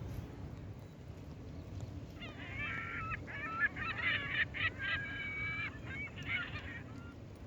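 Several geese honking, a run of overlapping calls that starts about two seconds in and stops a little after six seconds, over a steady low background rumble.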